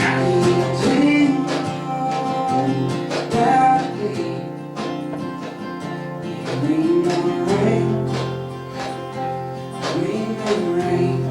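Acoustic country band playing: picked acoustic guitars with a melody line bending over them.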